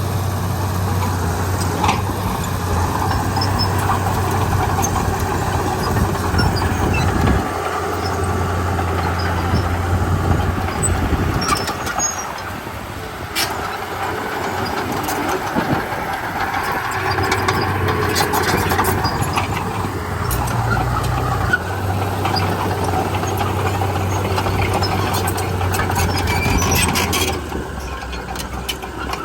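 Komatsu D31P crawler bulldozer at work: its diesel engine runs steadily, the low engine note shifting a few times, with scattered metallic clanks.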